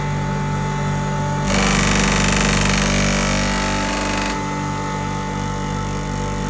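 Electric rice grinding machine running steadily with a constant hum and a regular pulsing. About a second and a half in it turns louder and harsher for roughly three seconds, then settles back.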